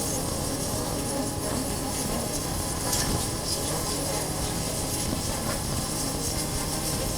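Honda CB400X's parallel-twin engine running steadily under way, mixed with a constant rush of wind and road noise over the chest-mounted camera.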